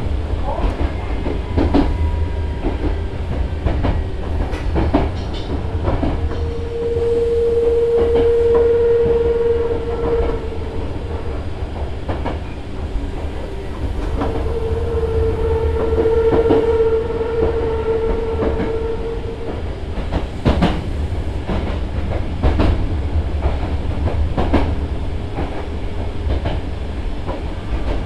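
Nose Electric Railway 5100 series electric train running between stations, heard from inside the car: a steady low rumble with the clicks of wheels passing over rail joints. Twice a steady mid-pitched tone rises out of the rumble for about four and five seconds.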